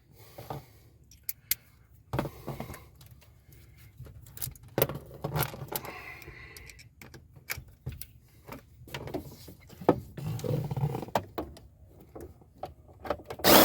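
Scattered light clicks and metallic clatter of hand tools and small screws and parts being handled while a throttle position sensor is fitted to a truck's accelerator pedal.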